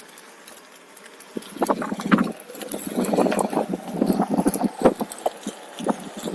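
OneWheel electric board rolling over a rough trail, with irregular knocks, clicks and rattles as it jolts over bumps, getting louder about a second and a half in.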